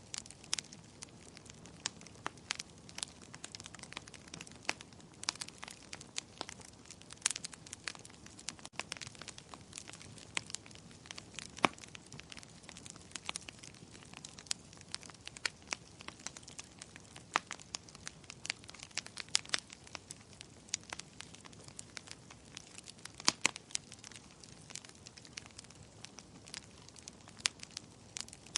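Wood fire burning in a fireplace: steady crackling with irregular sharp pops and snaps over a low hiss, the loudest pops about 12 and 23 seconds in.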